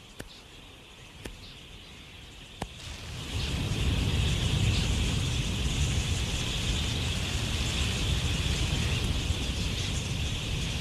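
A few faint clicks, then about three seconds in the dense, steady chatter of a huge flock of wild budgerigars swells up, with a low rumble beneath it.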